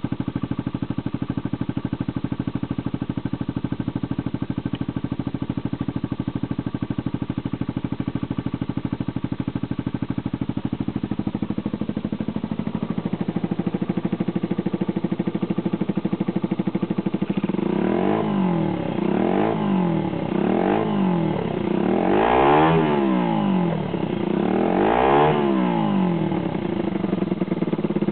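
Motorcycle engine running through an imitation Honda CR110-style muffler, idling steadily, then from about two-thirds in revved in several short throttle blips that rise and fall in pitch, the last two the highest and loudest.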